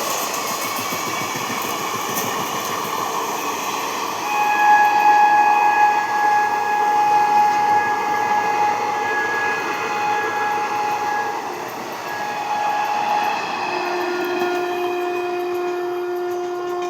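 Train running on the tracks, with a long steady horn blast starting about four seconds in and breaking off near eleven seconds. A lower steady tone takes over for the last few seconds.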